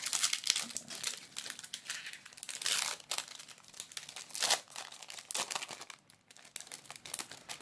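Foil booster-pack wrapper crinkling and being torn open by hand, in irregular crackly bursts, the loudest about three seconds in and again about a second and a half later.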